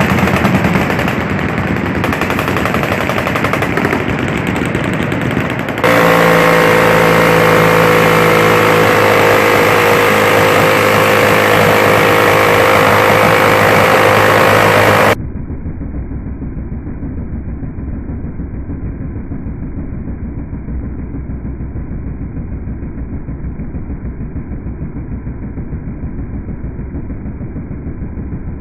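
Miniguns firing long continuous bursts as a rapid buzzing drone, growing louder and steadier about six seconds in. About halfway through the firing cuts off abruptly, leaving a quieter, muffled steady rumble.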